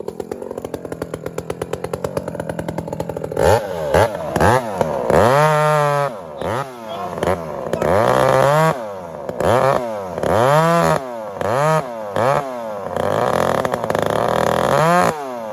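Chainsaw idling, then from about three and a half seconds in revved up and back down again and again, its pitch rising and falling with each rev, settling back near the end.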